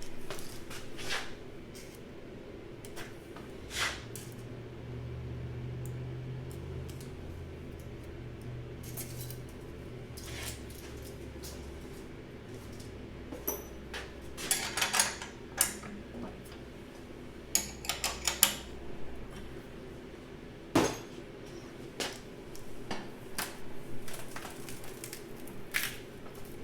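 18-gauge sheet steel being handled and folded on a sheet metal brake: irregular metallic clanks and rattles, with a cluster of quick clinks in the middle and one sharp knock after it, over a faint low hum.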